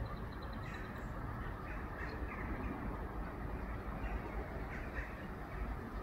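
Birds calling: a few short, harsh calls about 1 s, 2 s and 5 s in, over a steady low rumble.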